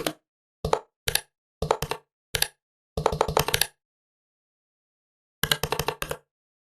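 Typing on a Huawei Matebook 13 laptop keyboard: short runs of key clicks, a quicker flurry at about three seconds in, a pause, then another short run near the end.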